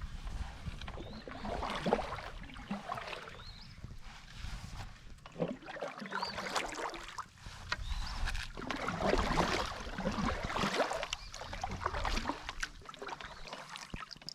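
Single-blade paddle strokes and water splashing against a solo canoe, coming about every one to one and a half seconds, with wind rumbling on the microphone.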